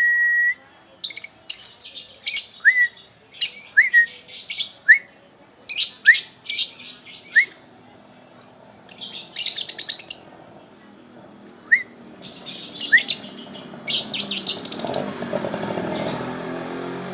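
Songbird singing in a back-and-forth duel: repeated bursts of rapid, high chattering notes, each with a short upward-slurred whistle, opening with a held whistle. A duller noise rises underneath near the end.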